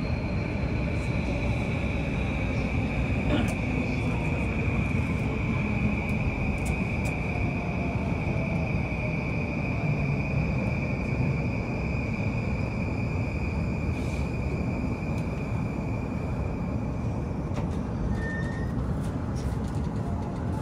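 JR Yamanote Line train running on its rails: a steady rumble with a high, steady whine over it that stops about 17 seconds in.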